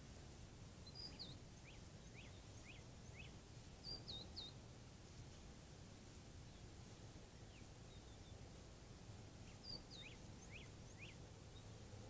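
Faint wild bird calls: a high hooked note followed by a quick run of three or four short notes, repeated three times, over a steady low outdoor background hiss.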